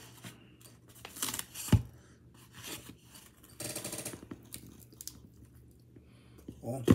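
A person biting into a Hot Pocket and chewing, with crackly bites of the pastry crust through the middle. Two sharp knocks, the loudest sounds, come about two seconds in and right at the end.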